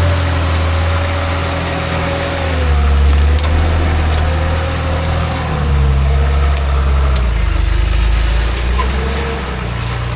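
Rock-crawling off-road truck's engine running at low revs, its pitch stepping up and down with the throttle, with a thin whine riding steadily above it.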